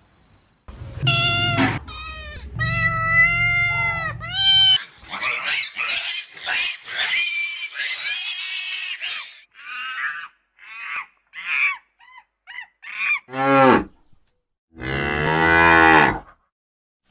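Cattle mooing: a string of separate calls, a few short ones in the middle, and a long, low, loud moo near the end.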